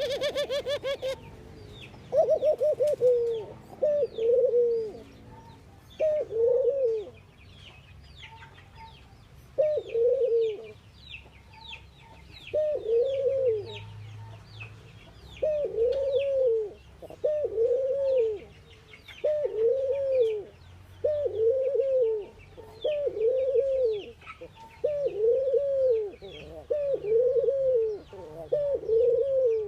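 Ringneck doves cooing: a long series of short arched coos, coming about every second or two and settling into a steady rhythm about halfway through. Faint high chirps run above them, and a brief harsh burst sounds in the first second.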